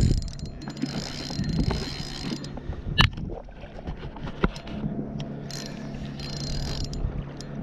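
Spinning fishing reel working during the fight with a hooked redfish: a steady mechanical whirr of gears and drag, with a sharp click about three seconds in and another a second and a half later.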